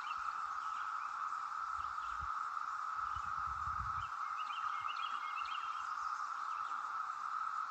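Chorus of Brood XIV periodical cicadas: a steady, unbroken drone.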